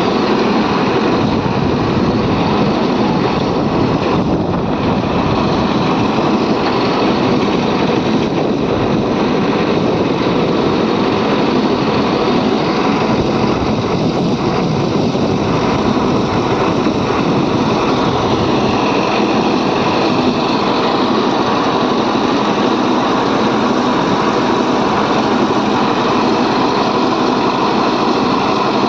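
Diesel engine of a JCB 3DX backhoe loader at work, running steadily and loudly with no breaks.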